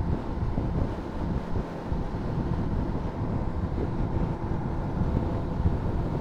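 Honda CBR600RR inline-four engine running as the motorcycle rides along, with wind buffeting the microphone.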